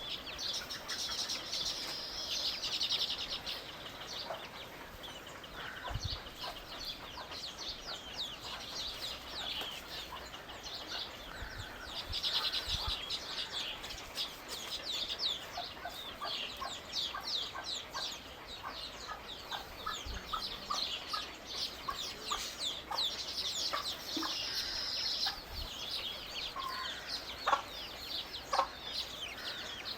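A flock of birds chirping and twittering in a dense, continuous chorus of quick high notes that swells several times, with shorter, lower calls mixed in during the second half.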